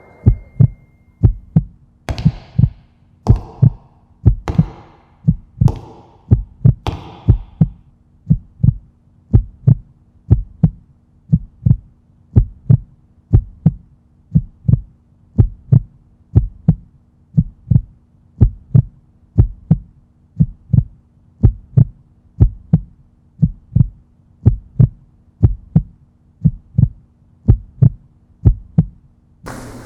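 Steady, heartbeat-like low thumps, about three every two seconds, over a faint low hum. For the first several seconds the thumps carry sharper, brighter hits.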